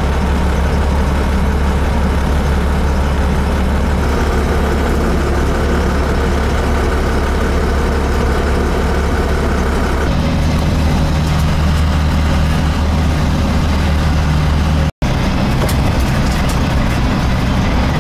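Vehicle engine and road noise, a loud steady low hum whose tone shifts abruptly a few times.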